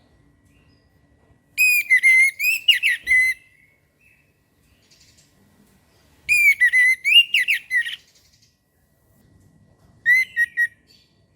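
Orange-headed thrush singing: three bursts of clear, warbling whistled phrases, two of about a second and a half and a short one near the end, with pauses between.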